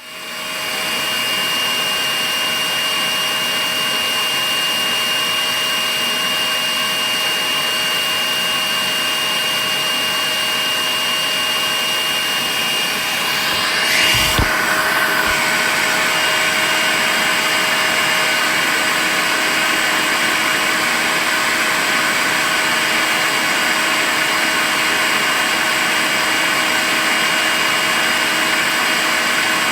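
Makita cordless vacuum cleaner running steadily, a whirring motor noise with a high whine. About halfway through the pitch briefly sweeps and shifts, and the cleaner then runs a little louder.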